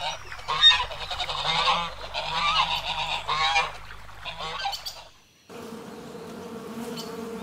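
Geese honking, a string of harsh calls for about five seconds. After a brief gap, a bee buzzes steadily.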